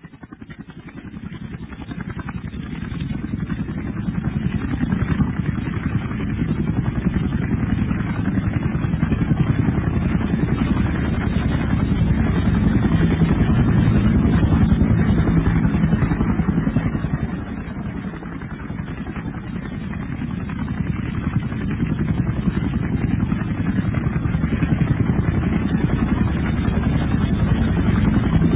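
A steady engine sound fading in over the first few seconds, with a brief dip about two thirds of the way through.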